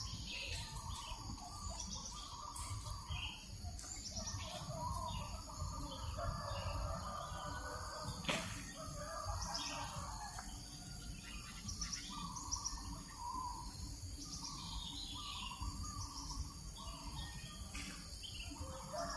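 Several birds calling and chirping in short, repeated notes over a steady high insect buzz and a low wind rumble. A single sharp click sounds about eight seconds in.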